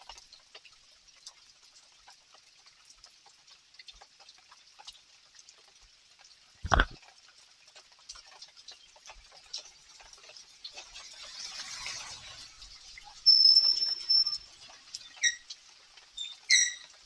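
Night rain pattering and dripping as a steady hiss of small ticks. There is one sharp thump about seven seconds in, a vehicle passing that swells and fades around twelve seconds, and a few short high-pitched calls and a brief held whistle near the end.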